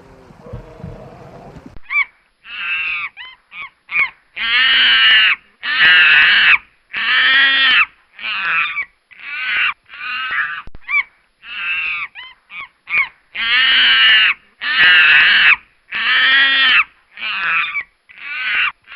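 An animal giving a series of loud, harsh calls, about one a second, starting about two seconds in.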